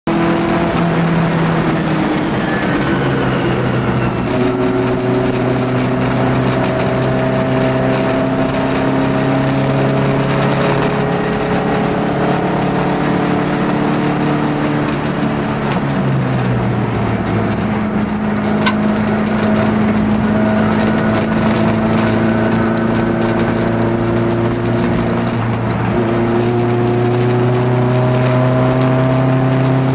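Porsche 914-4's air-cooled flat-four engine running hard under load, heard from inside the cabin on track. The engine note climbs slowly and falls back a few times as the car is driven through the corners.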